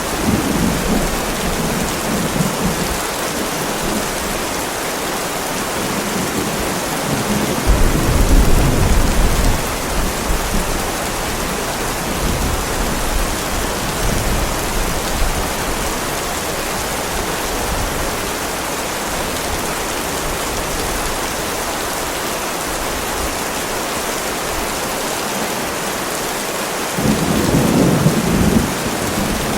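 Heavy steady rain with rolling thunder: a low rumble near the start, a louder one about eight seconds in, and another building near the end.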